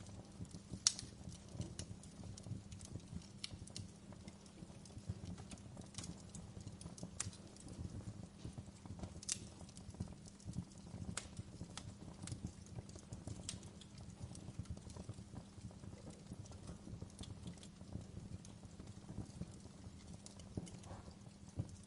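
Wood fire crackling: irregular sharp pops and snaps, about one a second, over a low steady rumble. The loudest pops come about a second in and near nine seconds.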